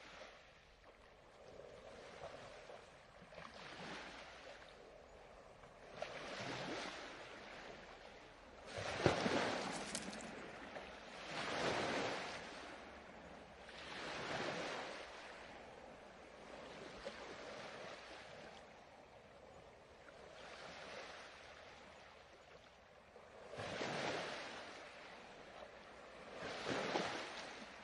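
Ocean surf washing ashore in repeated swells that rise and fall every two to three seconds, the strongest waves breaking about nine to twelve seconds in.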